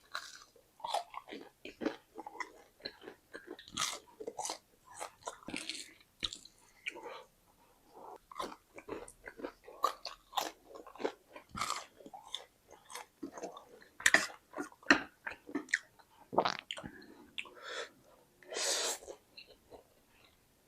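Close-up mouth sounds of someone eating spicy noodles and cimol bojot: irregular chewing and biting, a steady run of small clicks and smacks with brief pauses.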